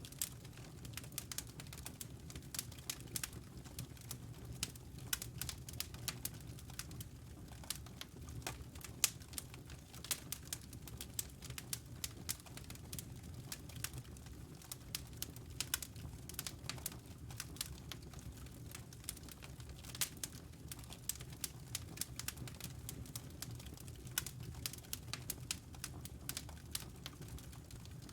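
Wood fire crackling in a fireplace: many irregular sharp snaps and pops, several a second, over a steady low rumble of the burning fire.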